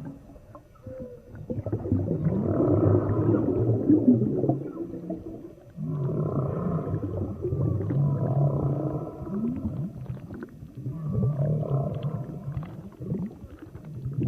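Whale calls recorded underwater: low pitched calls with pitch glides and rough rumbling parts, in three phrases of a few seconds each with short lulls between.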